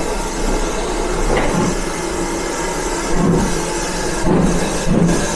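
A train at a station platform: steady mechanical rumble and hiss, with a few irregular louder pulses near the end.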